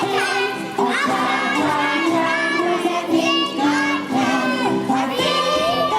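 A group of children singing a song from a stage musical over a steady musical accompaniment.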